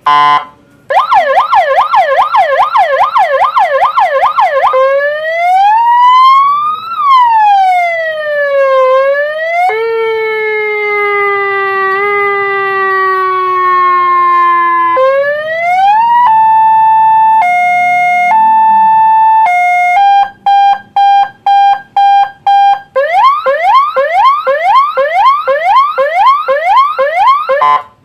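Megaphone's built-in electronic siren cycling through its tone modes. It begins with a fast yelping sweep, then a slow rising and falling wail, a long slowly falling tone, and a two-note hi-lo alternating about once a second. It moves on to rapid beeping and ends with the fast yelp again.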